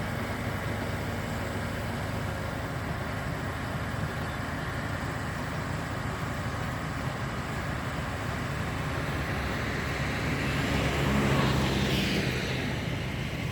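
Heavy diesel construction machinery running steadily. A louder engine sound swells up and fades again about ten to thirteen seconds in.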